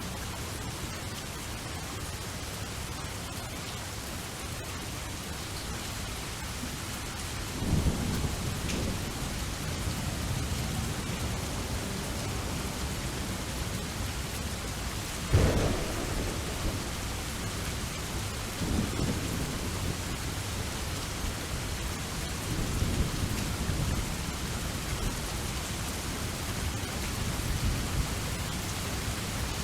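Steady rain falling, with thunder: a low rumble about a quarter of the way in, a sharper, louder crack about halfway through, then further rolling rumbles.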